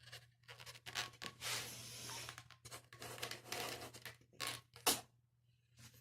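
Long latex modelling balloons being blown up by mouth: hard breaths into the balloon, with the rubber rubbing and clicking, and a sharp loud click about five seconds in.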